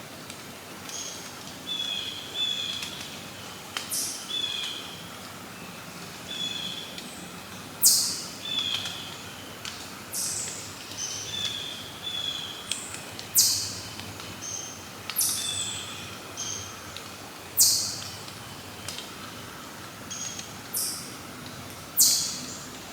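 Several small birds calling: loud, sharp, high calls repeat every few seconds, with softer short chirps in between.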